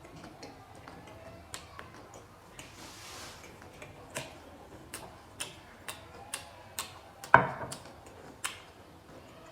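Eating sounds: irregular sharp clicks and crisp knocks, roughly one or two a second, with one much louder knock about seven seconds in.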